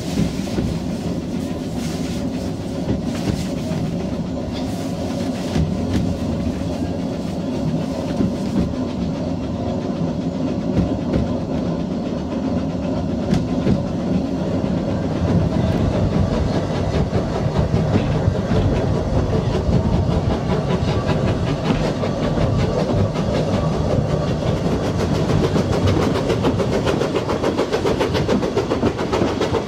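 Narrow-gauge passenger train running along the track: a steady rumble with the clatter of coach wheels over the rails, getting somewhat louder from about halfway through.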